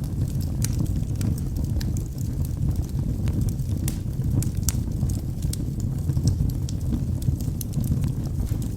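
Wood logs burning in a fireplace: a steady low rumble of flame with frequent, irregular sharp crackles and pops from the burning wood.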